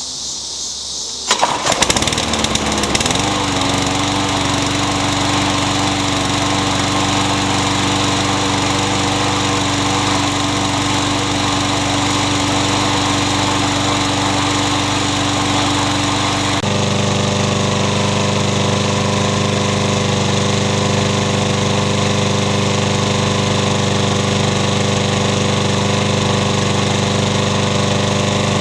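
Yard Machines walk-behind lawn mower's small engine pull-started, catching about a second in and settling within a couple of seconds into a steady run. Partway through, its note changes abruptly and then holds steady again.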